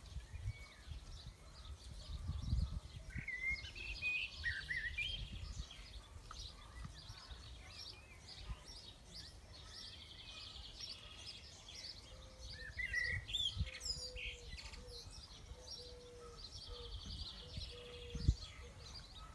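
Small birds chirping, with several short buzzy trills, over a low rumble on the microphone.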